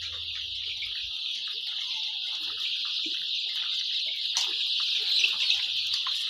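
A flock of young poultry chicks peeping all at once, a dense, unbroken high chorus.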